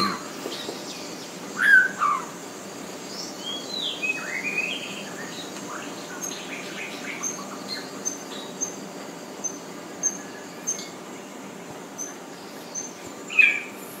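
Tropical forest ambience with birds calling: several falling whistled calls in the first few seconds, then a steady run of short high pips about two a second, and one louder call near the end.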